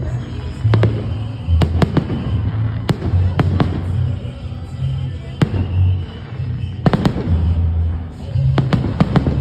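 Fireworks salute: shells bursting with sharp bangs at irregular intervals, sometimes two or three in quick succession, with music playing underneath.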